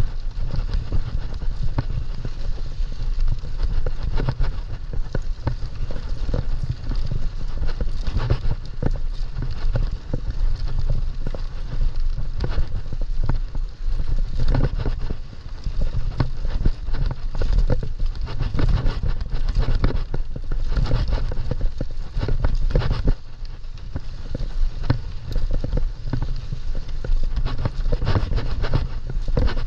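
Mountain bike being ridden over a rough trail: a steady low rumble with a constant irregular clatter of knocks and rattles from the bike.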